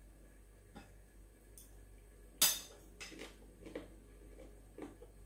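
A metal spoon clinks sharply against a dish once, about two and a half seconds in, after a fainter clink near the start. Soft close-up chewing sounds follow.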